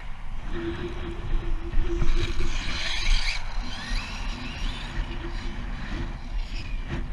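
Wind buffeting the microphone in a strong crosswind, with a faint rising whine about three and a half seconds in.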